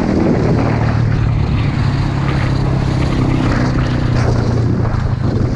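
Small pit bike engine running at a steady, fairly low speed, with scattered clicks and rattles over it.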